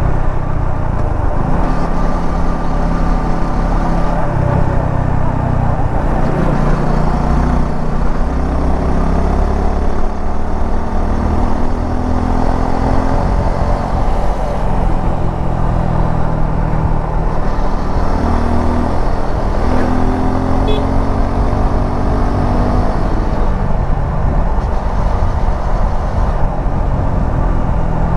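Suzuki V-Strom 250 SX's single-cylinder engine running under way, its pitch rising and falling again and again with the throttle and gear changes, over a steady rush of wind and road noise.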